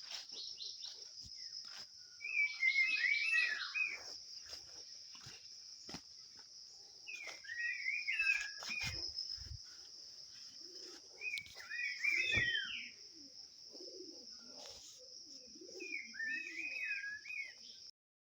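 A songbird singing short warbling phrases, four times, over a steady high-pitched drone of outdoor ambience. The sound cuts off suddenly near the end.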